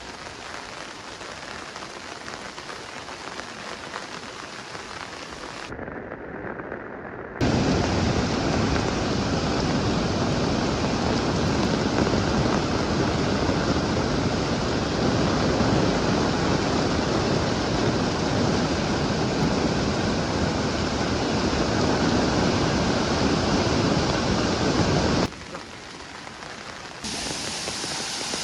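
Rain and running water, heard as a steady hiss that jumps at sharp cuts: a few seconds of rain, then a much louder, deeper steady rush of heavy rain or torrent for most of the stretch, then a quieter water rush again near the end.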